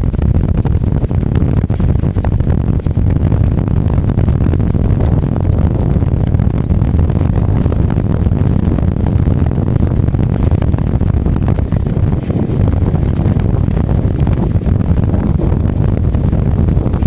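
Wind buffeting the microphone with a steady low rumble from tyres rolling down a dirt slope.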